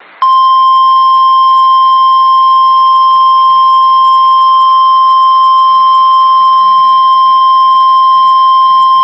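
NOAA Weather Radio warning alarm tone: a single loud, steady 1050 Hz tone held for about nine seconds, the signal that an emergency warning message is about to be read.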